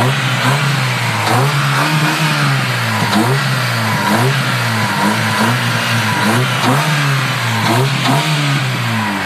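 Honda Civic's four-cylinder engine, fitted with headers and an off-road exhaust, being revved in repeated short blips, its pitch rising and falling about once a second.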